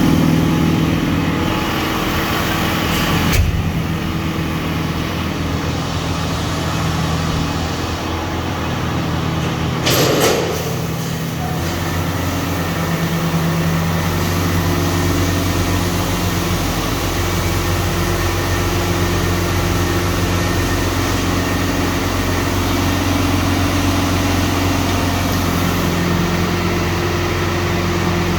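Large diesel farm machine engine running steadily under load. There is a sharp knock about three seconds in and a brief rush of noise about ten seconds in.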